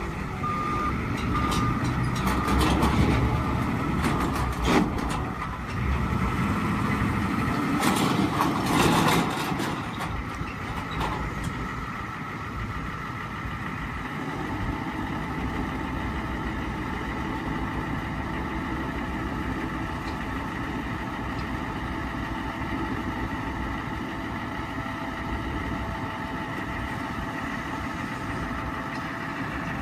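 Truck reversing beeper sounding briefly at the start while the International truck's engine runs louder and unevenly with some clatter. From about twelve seconds in, the engine settles into a steady idle.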